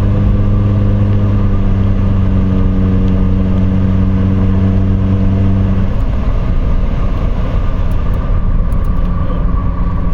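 Exhaust drone of a muffler-deleted 1ZZ-FE 1.8-litre four-cylinder at steady highway cruise, heard inside the car with windows up, over tyre and road noise. The deep droning tone fades about six seconds in, leaving the road noise.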